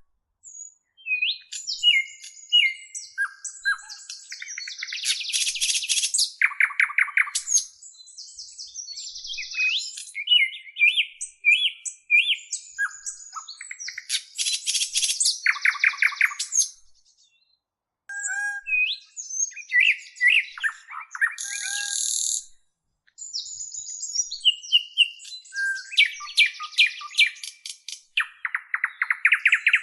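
Bird song: a varied, continuous string of chirps, slurred whistles and rapid trills, with buzzy, fast-pulsed phrases that repeat several times, broken by two short pauses.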